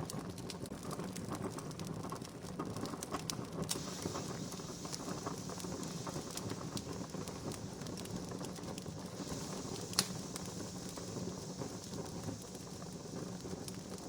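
Wood campfire crackling steadily, with frequent small pops and one sharper pop about ten seconds in.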